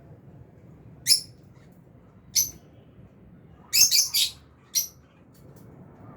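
Lovebirds in an aviary giving short, sharp, high-pitched chirps. Single calls come about one and two and a half seconds in, then a quick run of three around four seconds and one more near five.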